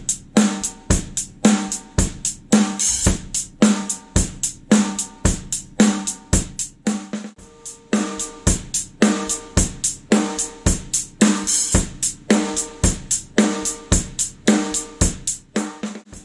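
1967 Ludwig Supraphonic snare drum with a coated Controlled Sound head, struck over and over at a steady pace of about two to three hits a second, each hit cracking with snare-wire buzz and a short ringing tone.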